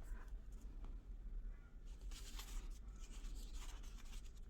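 Paper rustling and scraping as pieces of paper are handled and pressed down, in two soft stretches around the middle.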